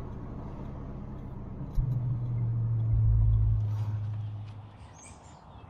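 The 1970 Dodge Coronet's 318 V8 running while cruising, heard from inside the cabin with road noise. It swells suddenly louder and deeper about two seconds in, then fades away near the end.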